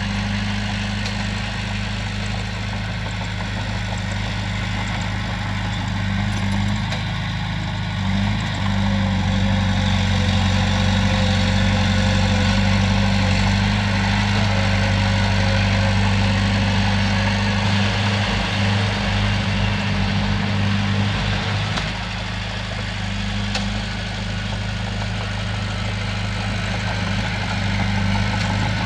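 Komatsu bulldozer's diesel engine running steadily with a deep, even tone, growing louder for several seconds in the middle before settling back.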